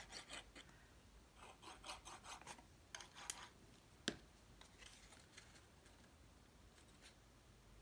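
Faint rustling and scraping of cardstock being handled and pressed into place, in short runs, with two sharp clicks a little before the middle.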